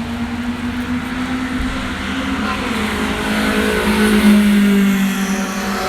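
Track car engine held at high revs as the car approaches and passes on a wet circuit, with a hiss under it. It is loudest about four seconds in, and its pitch drops slightly as it goes by.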